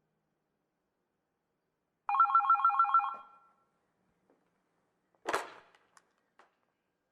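A telephone-style bell ringing in one short trilling burst of about a second, two alternating tones warbling rapidly, about two seconds in; a brief noisy rush follows about three seconds later.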